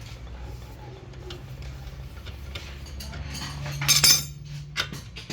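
Metal tools and shock absorber parts clinking and knocking against each other, with a loud metallic clank about four seconds in, over a steady low hum.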